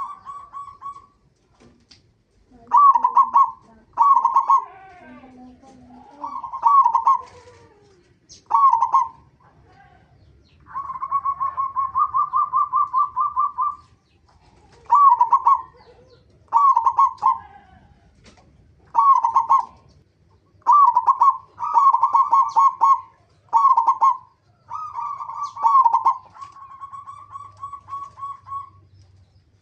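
Zebra dove (perkutut) cooing: short, loud coo phrases repeated every second or two, with a longer, rapidly pulsed rolling coo about a third of the way in and another near the end.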